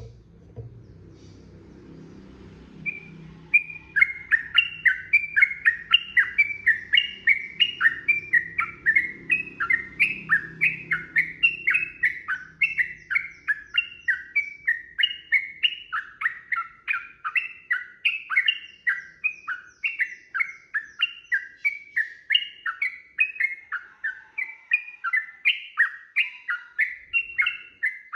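Yellow-vented bulbul (trucukan) singing a long, unbroken run of quick chattering notes, about three or four a second. The run starts about three seconds in. This is the long 'ropel' song that bird keepers play to get caged birds singing.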